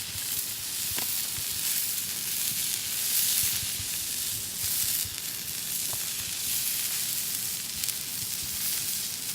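Misuji beef steak sizzling as it sears on a hot cooking surface: a steady hiss with small pops and crackles. The sizzle is described as perfect.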